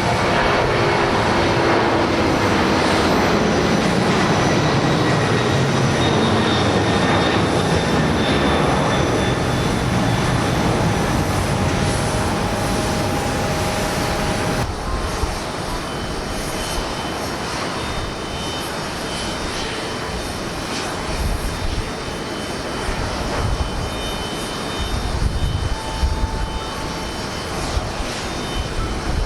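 Jet airliner engines at takeoff thrust, with a whine that slowly falls in pitch as the aircraft passes. About halfway through, an abrupt cut brings in a second jet's takeoff, with a steady high whine. In the last few seconds, wind gusts buffet the microphone.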